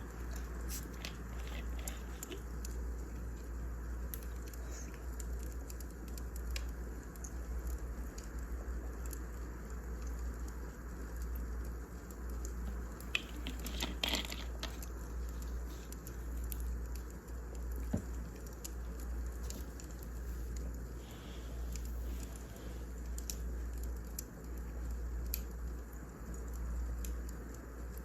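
Wood fire crackling, with scattered small pops over a steady low rumble and a brief run of louder crackles about halfway through, then one sharp pop a few seconds later.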